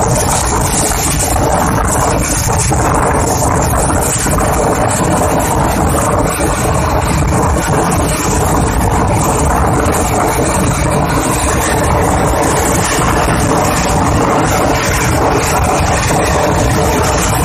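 Pakistan Railways express train, hauled by an EMD HGMU-30 diesel locomotive, heard from an open coach window while running: a steady, unbroken rumble of the moving train.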